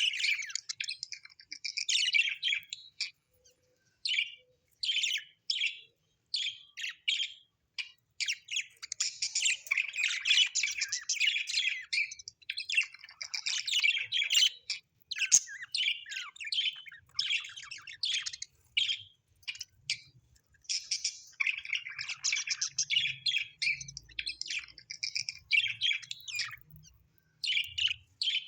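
Small parrots chirping and chattering in bursts of rapid, high twittering, broken by short pauses.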